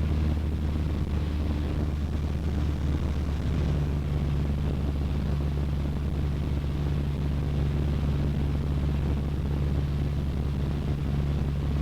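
Cessna 152's four-cylinder piston engine and propeller droning steadily, heard from inside the cabin; the tone of the drone shifts slightly about three seconds in.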